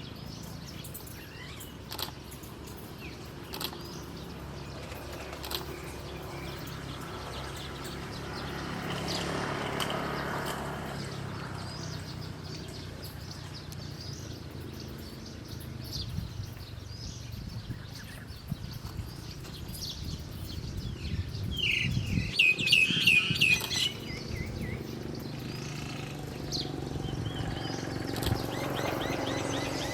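A small bird chirping in short, high calls, with a quick run of loud chirps about two-thirds of the way through. A steady low background rumble runs underneath.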